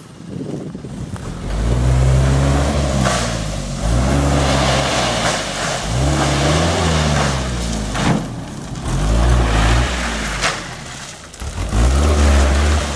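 Truck engine revving up and falling back about five times, with several sharp knocks between the revs.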